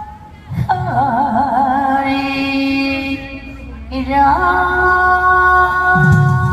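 A woman singing two long held phrases, the first with a wide vibrato, over backing music. A low drum and bass beat comes in near the end.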